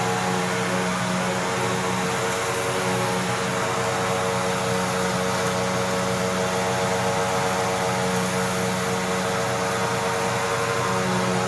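Hoover Tempo upright vacuum cleaner running steadily, its motor giving an even whine over a rush of air, as it vacuums up a test mess.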